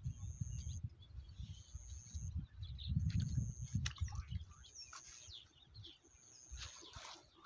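A bird repeating a thin, high, steady whistle, each note held a little under a second, about every second and a half. Under it, a low rumble during the first half, and a few clicks and rustles near the end.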